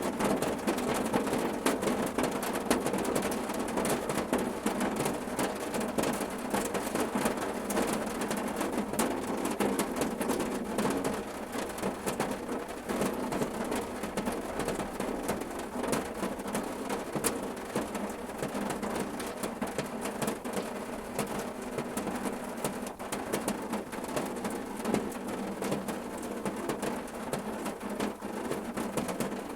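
Steady rain falling on a car roof: a dense patter of individual drops over an even hiss, easing slightly about a third of the way in.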